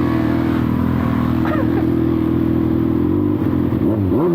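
Kawasaki ZX-6R inline-four engine running with its silencer can removed. It holds a steady note, then near the end the revs drop and climb back twice.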